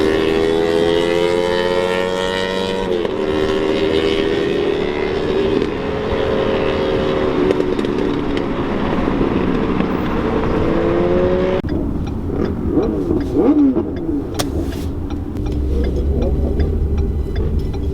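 Vehicle engine accelerating hard, its pitch climbing steadily and then falling sharply with each gear change, several times over. About two-thirds of the way in the sound changes abruptly to another engine running with wavering pitch.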